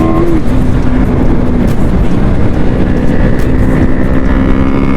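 Motorcycle engine running at a steady cruising speed, its pitch dropping slightly about a third of a second in and settling back up near the second mark, under heavy wind rumble on the microphone.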